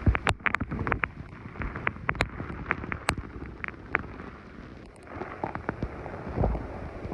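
Heavy rain from a hurricane storm band, with scattered sharp taps of raindrops over a steady hiss, and wind rumbling on the microphone; it eases a little midway and builds again near the end.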